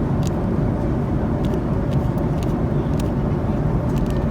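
Steady cabin noise of an Airbus A310-304 airliner at cruise, heard from an economy window seat: an even engine and airflow rush, heaviest in the low end, with a few faint clicks.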